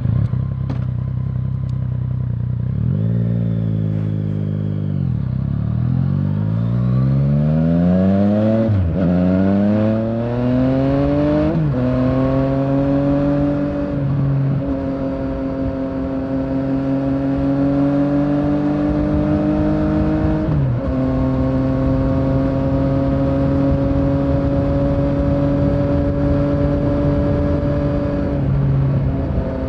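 Yamaha Tracer 900's three-cylinder engine idling, then pulling away and accelerating through the gears. Its pitch rises and falls back at each of three quick upshifts, then it runs at a steady cruise with a few more gear changes.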